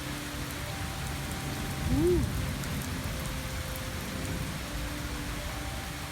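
Steady rain falling on the roof. About two seconds in, a short, loud tone rises and falls in pitch once.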